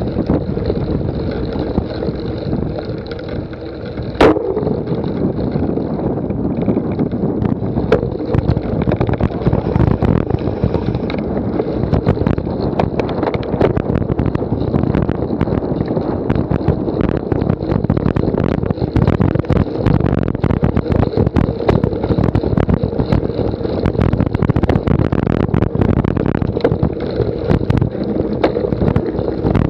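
Wind buffeting the microphone over a continuous rattle of jolts and knocks, typical of a camera riding on a cyclocross bike over rough ground. A single sharp click with a brief ring comes about four seconds in.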